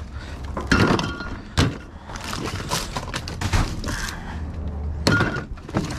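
Irregular knocks and clatters of rubbish being rummaged through in a dumpster while used oil filters are picked out.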